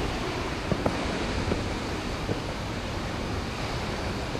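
Steady, dense rush of a nearby waterfall, with a couple of faint ticks just under a second in.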